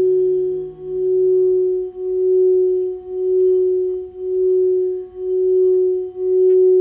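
Singing bowl sounding one steady, sustained tone that swells and dips about once a second. A fainter lower tone fades out about two seconds in.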